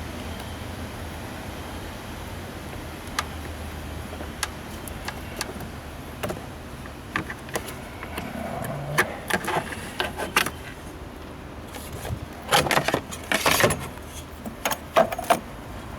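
Sharp metallic clinks and rattles of tools and parts being handled in car battery work, sparse at first, then a dense clatter about twelve seconds in, over a steady low hum.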